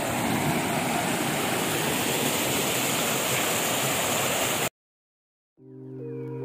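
Waterfall rushing with a steady, even roar of falling water. It cuts off suddenly near the end, and after a moment of silence soft ambient music with long held tones fades in.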